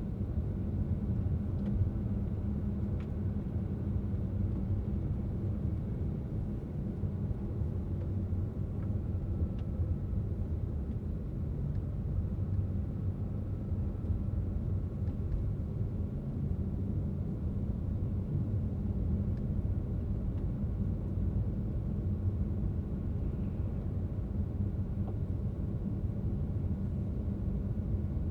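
Steady low rumble of a car driving, tyre and engine noise holding even with no change in speed.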